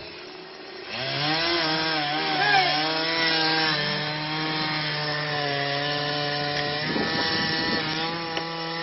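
Gas chainsaw revving up about a second in, its pitch wavering briefly, then running at a steady high speed while cutting into a tree.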